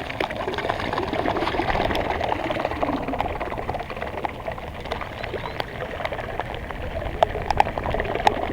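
Water pouring and splashing steadily as rainwater is drained out of a flooded boat, with scattered small clicks and splashes.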